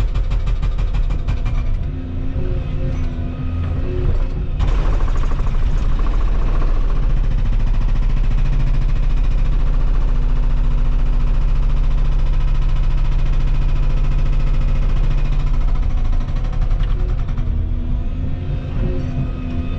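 Volvo 235EL excavator's diesel engine working under hydraulic load. It rises in level about four and a half seconds in and holds steady until about seventeen seconds, then eases off.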